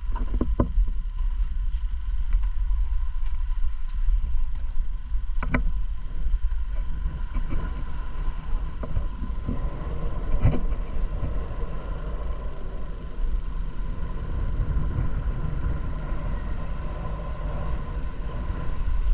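Wind buffeting the microphone as a steady low rumble, with a few scattered sharp knocks and clicks.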